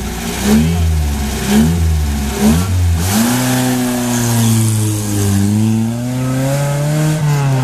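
A rally car's engine is revved in short rising bursts about once a second. About three seconds in it settles into a long, sustained pull whose pitch dips and then climbs again near the end.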